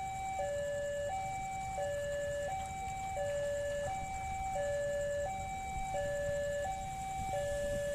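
Railway level-crossing warning alarm sounding a steady two-tone hi-lo signal, the notes swapping about every three-quarters of a second, which signals that a train is approaching the crossing. Low traffic rumble lies underneath.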